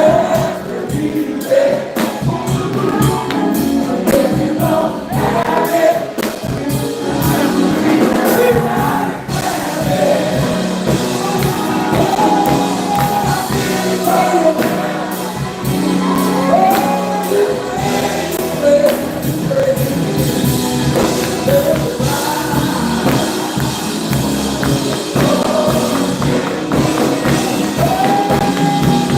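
Gospel music: singing over a steady bass with tambourine and choir.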